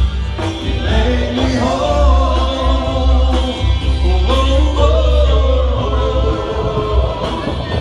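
Live band playing a song with a singer, over a heavy, steady bass.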